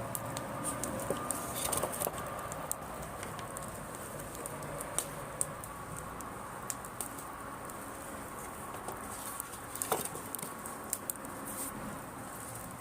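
Driftwood bonfire crackling, with scattered sharp pops and snaps through the steady hiss of the burning, one of the louder snaps about ten seconds in.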